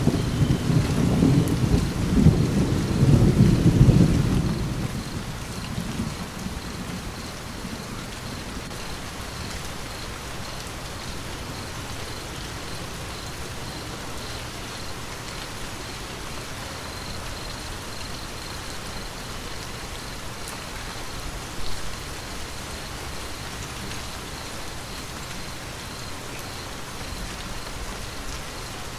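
Steady rain falling, with a deep rumble of thunder over the first few seconds that dies away about five seconds in.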